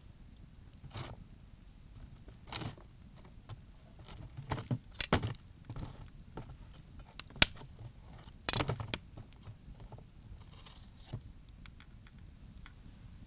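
Wood campfire with irregular sharp pops, cracks and clatters over a low steady background, the loudest clusters about five seconds in and again about eight and a half seconds in.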